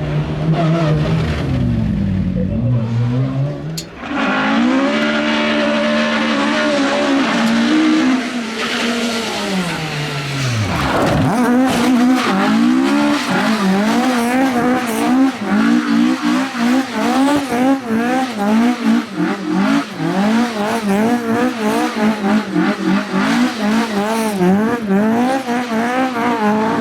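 Rally car engine revved hard, its pitch climbing and falling through the gears. From about halfway on, the revs surge up and down in quick repeated swings, with tyres squealing.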